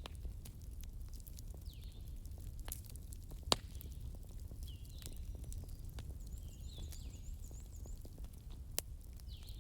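Wood fire crackling in a fireplace: a steady low rumble with scattered small crackles and two sharp pops, one about three and a half seconds in and a smaller one near the end.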